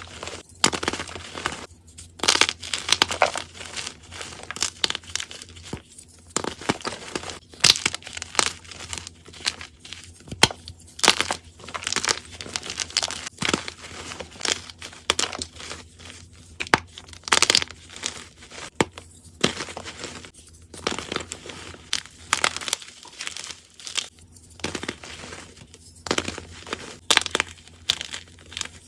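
Crunchy soft gym chalk cubes being crushed and crumbled: an irregular run of sharp crunches, some loud and close, with crumbly crackling between them.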